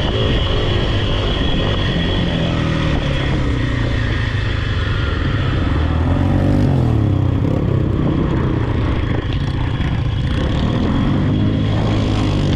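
Off-road vehicle engine running hard, its pitch rising and falling several times as the throttle is worked.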